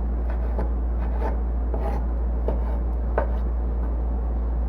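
Kitchen knife chopping food on a cutting board: a handful of separate, irregular knocks over a steady low hum.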